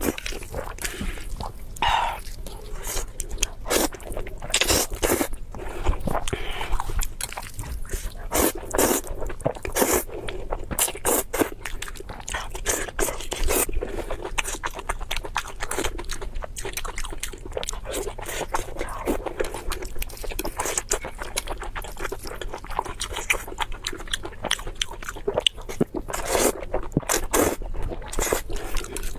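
Close-miked eating sounds: biting and chewing with many sharp, irregular crunchy clicks throughout.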